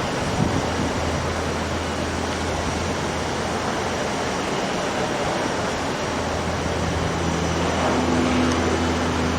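Jet airliner engines running, a steady rushing noise with a low hum underneath, growing a little louder with some low steady tones coming in near the end.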